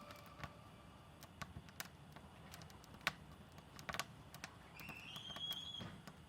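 Faint, irregular sharp clicks and pops, with a brief thin tone rising slightly about five seconds in.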